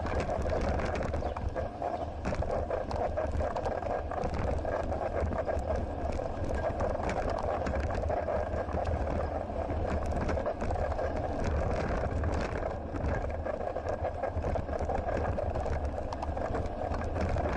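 Bicycle in motion heard through an action camera: a steady rumble of wind and tyres on the road, with frequent small clicks and rattles throughout.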